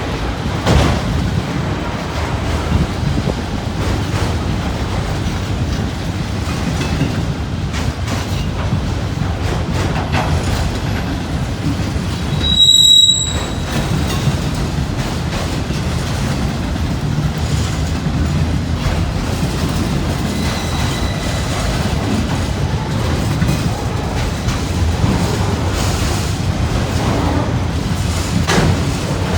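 Freight train cars rolling past with a steady low rumble of wheels on rail. About thirteen seconds in, a wheel gives one short, high squeal, the loudest sound here, and a fainter squeal follows later.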